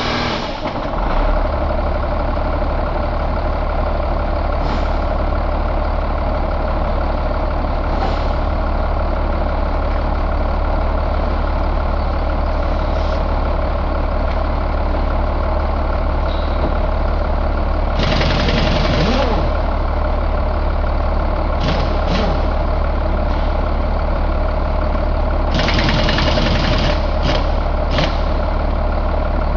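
Caterpillar 3116 inline-six diesel engine running steadily at idle, its low drone settling in about a second in. Two short bursts of hiss cut through, one about two-thirds of the way in and another near the end, with a few brief sharp noises between them.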